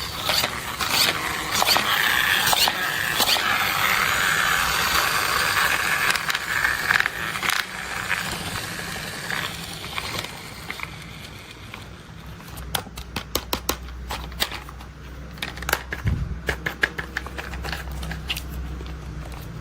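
Plastic toy construction vehicles being handled: rustling and scraping for the first half, then a run of sharp taps and clicks over a low rumble.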